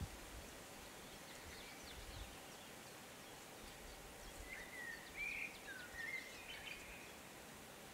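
Small birds singing faintly in the open countryside, a few short chirping, gliding phrases about halfway through, over quiet outdoor ambience.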